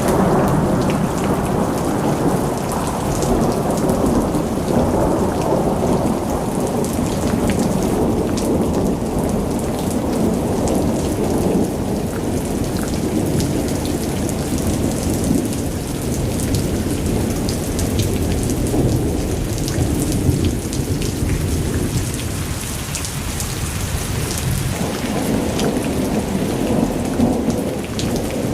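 Heavy rain falling steadily, with scattered sharp drop ticks on a surface, over a continuous low rolling rumble of thunder that eases somewhat partway through and builds again near the end.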